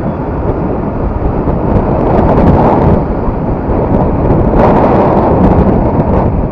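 Loud wind rush buffeting the microphone of a Yamaha R15 motorcycle in motion: a steady rumbling noise, heaviest in the low end, that swells briefly about two and a half and four and a half seconds in.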